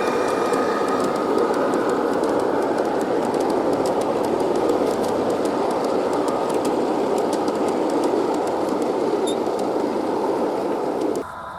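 G-gauge model train rolling along garden track: a steady rumble with many quick clicks from the wheels over the rails. It cuts off abruptly near the end.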